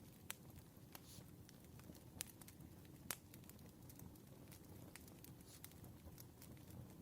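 Faint campfire crackling: a steady low rumble of burning wood with frequent small snaps and a few sharper pops.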